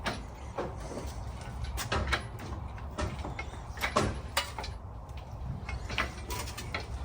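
Irregular metallic clanks, knocks and scrapes as an engine is lifted out of a car's engine bay on a hoist, over a steady low rumble.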